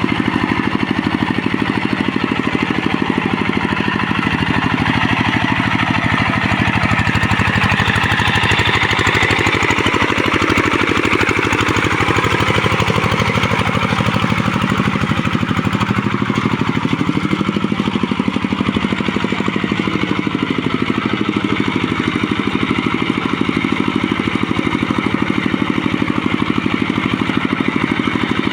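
Tractor engine running hard, with even firing pulses; its pitch sags and climbs back up about ten seconds in.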